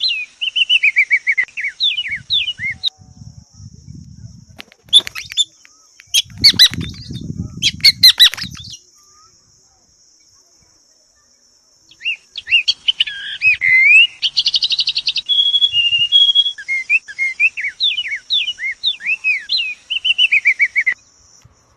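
A small bird calling over and over in quick, falling chirps, with a short trill in the second run of calls. The calls stop for a stretch of scuffling, flapping noise about three to nine seconds in, then near silence, before the chirping starts again.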